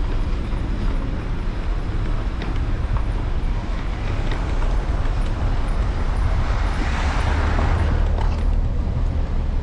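City street traffic heard from a handlebar-mounted camera on a moving electric scooter, over a steady low rumble of wind and road vibration. A passing vehicle swells up and fades away about seven seconds in.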